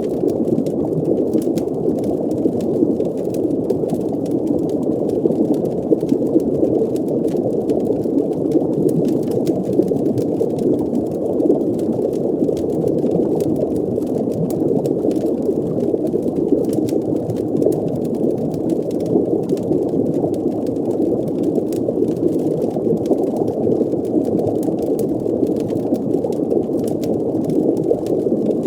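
Steady, muffled underwater ambience: a low rushing, bubbling drone with faint scattered crackles above it, like a fire heard through water.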